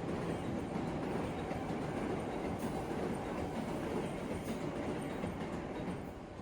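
New York City subway train running on the track, a steady rumble of wheels on rail with a few faint clicks. The sound drops away near the end.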